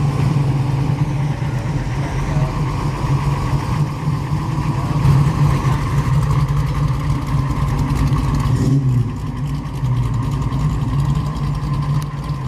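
Car engine running at a steady, loud idle with a low rumble, easing slightly about nine seconds in.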